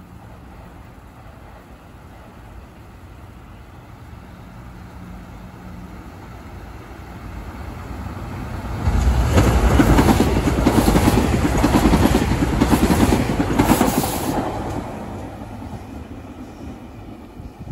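SEPTA Regional Rail electric multiple-unit train approaching and passing close by: a rising rumble, loud rattling wheels on the rails for about five seconds in the middle, then fading as it moves away.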